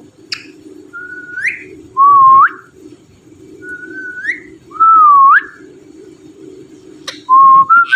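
Indian ringneck parrot whistling five short notes, each held and ending in a quick upward flick, with pauses between them.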